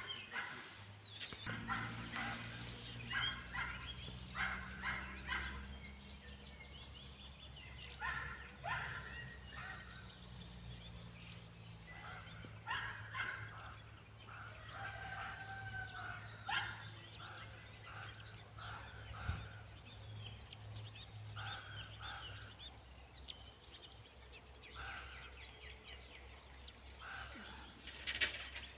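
Farmyard poultry calling over and over in short calls, over a steady low hum.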